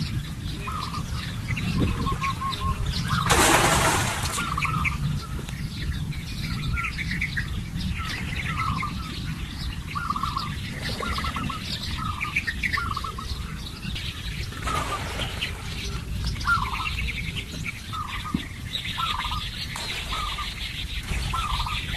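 Birds calling with short chirps repeated throughout, over a steady low rumble, with a brief burst of noise about three and a half seconds in.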